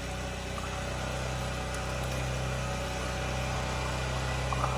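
An engine running steadily at idle: an even, low hum.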